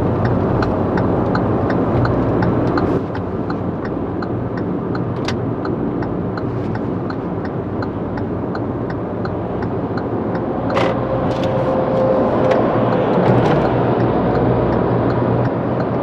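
Steady road and engine noise inside a Hyundai Venue's cabin while driving, a continuous rumble of tyres and engine. A light regular ticking runs through it at about two ticks a second, and the noise drops a little about three seconds in.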